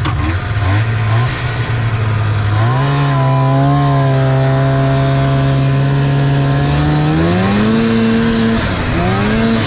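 Snowmobile engine running under way and speeding up: its pitch climbs about three seconds in, holds steady, climbs again near the end, drops briefly, then picks up once more.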